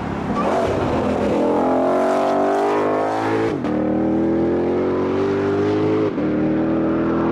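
2021 Shelby GT500's supercharged 5.2-litre V8 under hard acceleration, its pitch climbing steadily. The pitch drops sharply at two quick dual-clutch upshifts, about three and a half and six seconds in, then climbs again.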